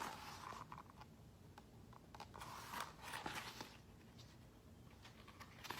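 Faint rustling and small clicks of a paper book page being handled and turned, strongest in the middle, over quiet room tone.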